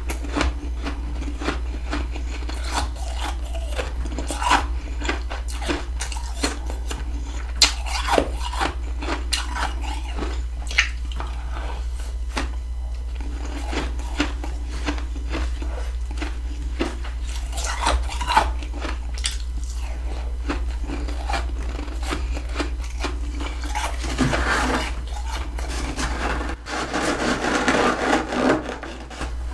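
Freezer frost being bitten and chewed: a series of sharp, separate crunches, with a denser stretch of crunching near the end. A steady low hum runs underneath.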